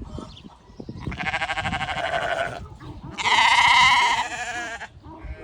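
Dorper sheep bleating: two long, quavering bleats, the second louder.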